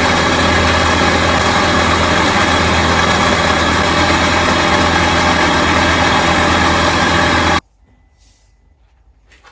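Electric workshop machine running steadily and loudly with a low hum under a dense hiss, cutting off abruptly about seven and a half seconds in; a faint metallic clink follows near the end.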